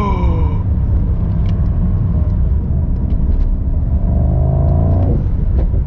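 2022 Mercedes-AMG SL55's 4.0-litre twin-turbo V8, heard from inside the cabin as the car accelerates in Sport Plus mode. It is a deep, steady rumble, and the engine note rises gradually before dropping away suddenly about five seconds in.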